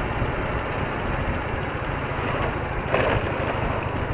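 BMW R80RT's air-cooled boxer-twin engine running steadily under way, with even wind and road rush over it; a short louder rush about three seconds in.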